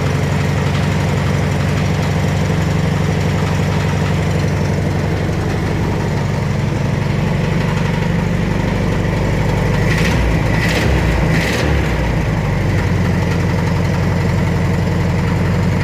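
1600cc AS engine running steadily on its first start. About ten seconds in there are three short sharp sounds, with a brief wobble in the engine note.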